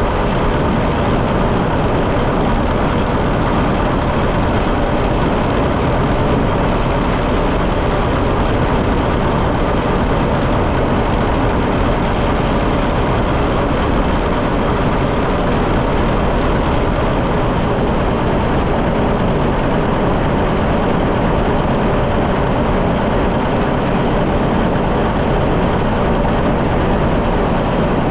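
John Deere 730 two-cylinder tractor engine running steadily as the tractor drives along the road, loud and close, with an even, unchanging beat.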